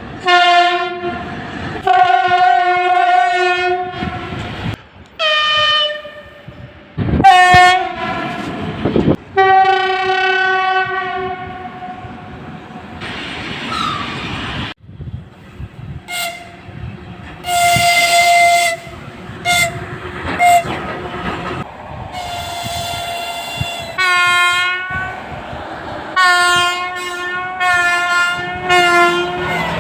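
Locomotive air horns (typhons) and whistles of Russian trains blowing in a run of separate short and long blasts, the pitch and sound changing from one blast to the next. Between some blasts the rumble and clatter of a moving train.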